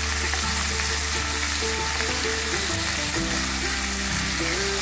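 Raw chicken pieces sizzling in hot oil in a frying pan as they are stirred. A steady frying hiss with background music.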